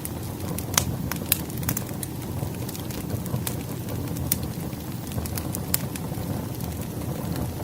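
Burning firewood crackling: a steady low rumble of the fire with irregular sharp pops and snaps from the logs.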